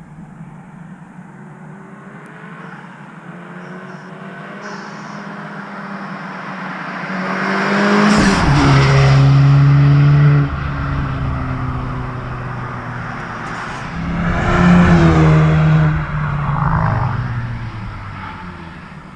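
Mk7 Golf R's turbocharged 2.0-litre four-cylinder, breathing through a Milltek cat-back exhaust, accelerating hard with its pitch climbing. The sound cuts off sharply about ten seconds in, as at a gear change, then swells again a few seconds later and fades near the end.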